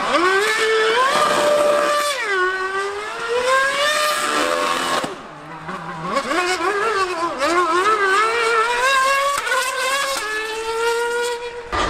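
High-revving racing engines of a Formula One car and a 1000cc superbike at speed on a circuit. The engine note climbs and holds, drops about two seconds in, climbs again, and dips and quietens briefly around the middle. It then rises and wavers again with gear changes and throttle lifts, and cuts off suddenly near the end.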